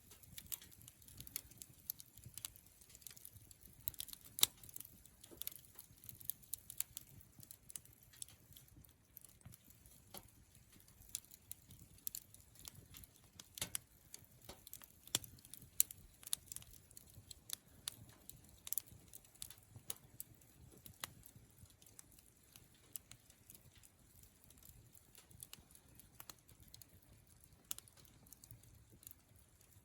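Wood campfire crackling, with irregular sharp pops and snaps over a faint low rumble of the flames; a few louder pops stand out.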